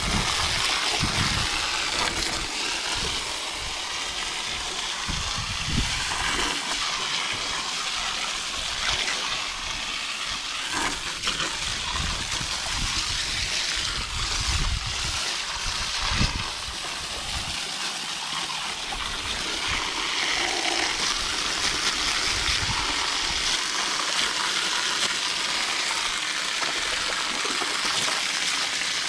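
Water from a garden hose spray nozzle hitting the coil fins of an outdoor AC condenser unit: a steady spray and splatter.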